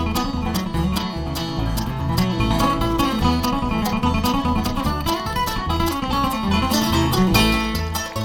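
Bluegrass band playing an instrumental break: plucked string instruments with guitar picking, over a steady, regularly stepping bass line.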